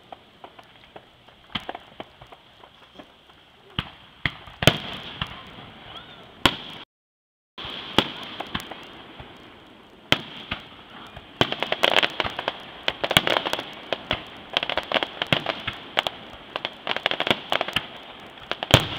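Aerial fireworks shells bursting: scattered sharp bangs at first, then a dense run of rapid bangs and crackling through the second half. The sound cuts out briefly about seven seconds in.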